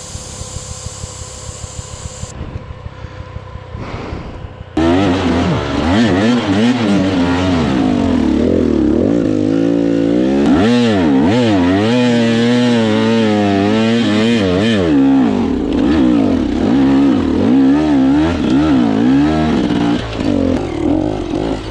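Dirt bike engine idling with even firing pulses, then about five seconds in it becomes much louder and revs up and down over and over as the bike rides, its pitch rising and falling with the throttle.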